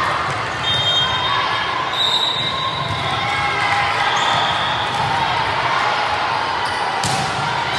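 Gym crowd and players' voices, with short sneaker squeaks on the court floor and one sharp smack of a ball about seven seconds in.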